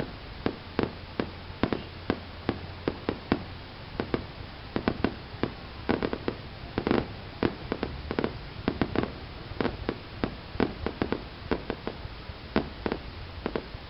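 Fireworks going off: an irregular run of sharp bangs and pops, several a second, some with a short echoing tail, bunching more densely about six to seven seconds in.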